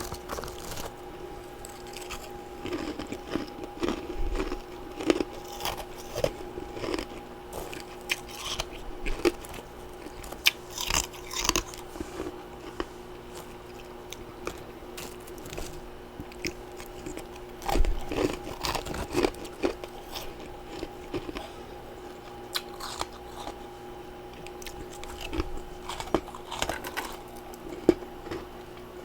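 A person biting and chewing freezer frost and ice chunks, with crisp crunches coming in irregular clusters of bites separated by quieter pauses.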